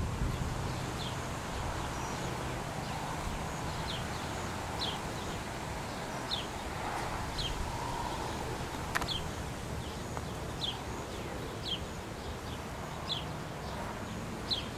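A bird calling over and over, a short high falling note roughly once a second, over steady outdoor background noise with a low hum. A single sharp click comes about nine seconds in.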